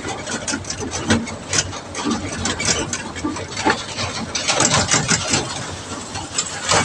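A vehicle engine running, with frequent sharp knocks and rattles over it.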